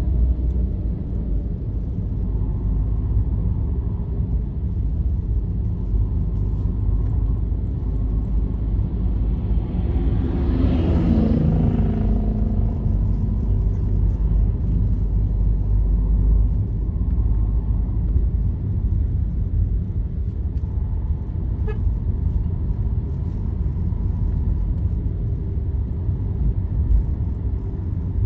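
Steady low road rumble of a vehicle travelling on a highway, with another vehicle passing about ten seconds in, its sound falling in pitch as it goes by.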